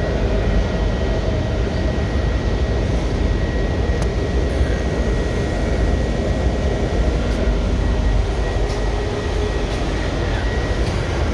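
Washington Metro rail car running at speed, heard from inside the car: a steady low rumble with a thin, steady whine above it and a few faint clicks.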